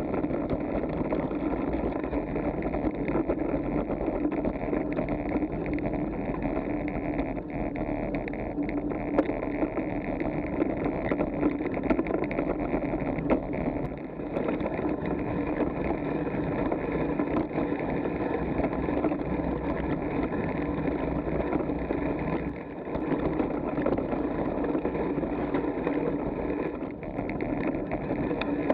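Steady rumbling road and wind noise of a bicycle ride, picked up by a Garmin Virb action camera, with a few faint clicks and brief dips in level.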